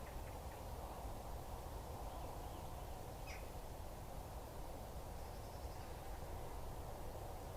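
Steady low hiss of a trail camera's microphone with a few faint, short bird calls in the background, one sharper call about three seconds in.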